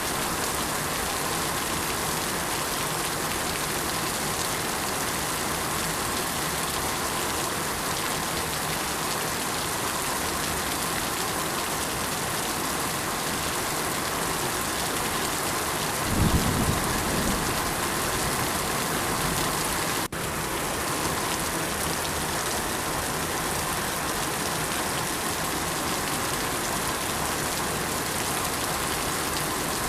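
Steady rain falling, with a brief low rumble a little past halfway through.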